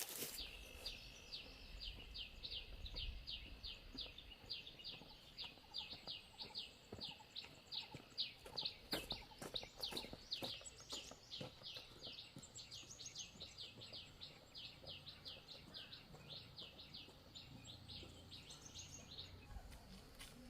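A bird calling over and over: a long, even series of short, high, falling notes, about two a second, faint in the background. A few sharp clicks come about halfway through.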